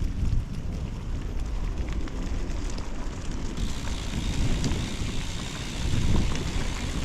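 Wind buffeting the microphone as a deep, uneven rumble over a steady hiss. The hiss turns brighter about halfway through.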